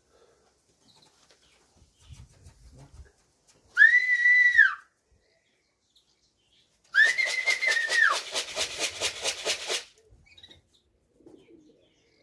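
A pigeon fancier's call-in whistle, one long note that rises, holds and falls away, sounded twice to bring racing pigeons down to the loft; the second whistle runs into a rapid rattle lasting about two seconds.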